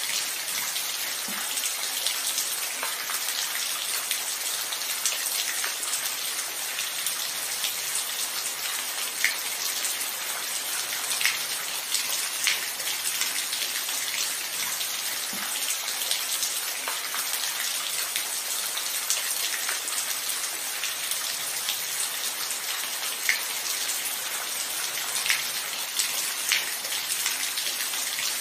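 Steady rain falling, an even hiss with individual drops ticking sharply every second or two.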